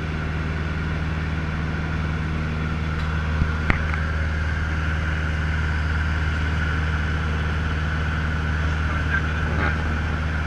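Cessna 150L's Continental O-200 four-cylinder engine and propeller running steadily with a constant drone. Two brief clicks come a little over three seconds in.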